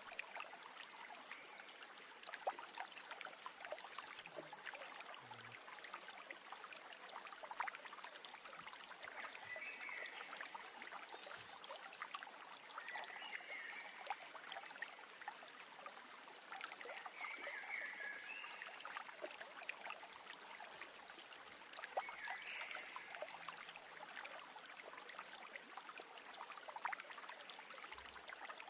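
Stream water babbling steadily, with a bird chirping in short bursts about four times over it.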